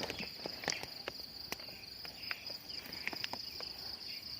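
A steady, high-pitched trill of crickets, with scattered light clicks and rustles on top.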